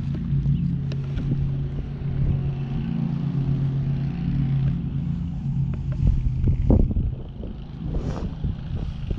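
A motor running with a steady low hum, which stops a little past halfway. It is followed by rustling and a few knocks.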